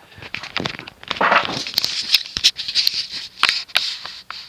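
Handling noise: irregular clicks, taps and scraping rustles, as of hands moving and handling things.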